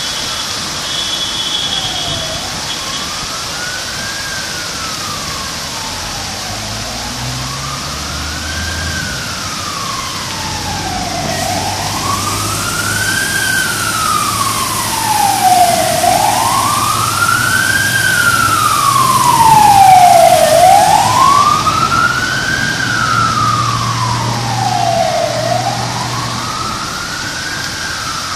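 Emergency vehicle siren in a slow wail, its pitch rising and falling about every four and a half seconds. It grows louder toward the middle and eases off a little near the end, over a steady hiss of rain.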